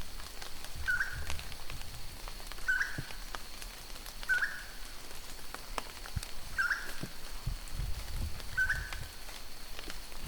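A forest bird repeats one short call, six times about two seconds apart, over a steady high insect drone.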